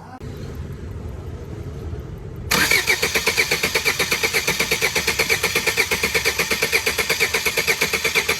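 Car engine being started: about two and a half seconds of low cranking, then it catches and runs with an even pulsing beat of about eight a second.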